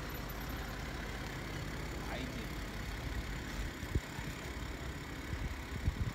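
BMW 7 Series (F01) idling with a steady low rumble, with two short thumps about four and six seconds in.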